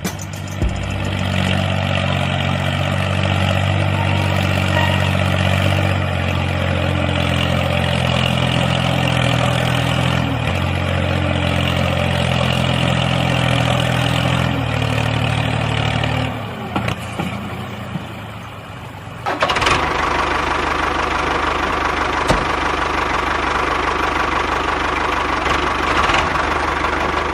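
An engine running steadily with an even low hum, dropping off briefly about two-thirds of the way through and then coming back as a rougher, noisier running sound.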